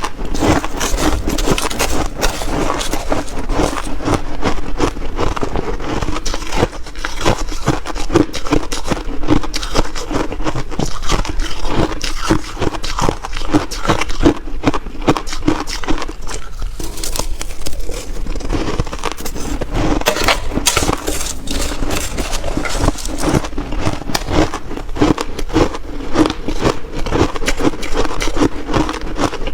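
Mouthfuls of shaved ice being bitten and chewed close to the microphone: dense, continuous crunching and crackling, with a brief lull about halfway through.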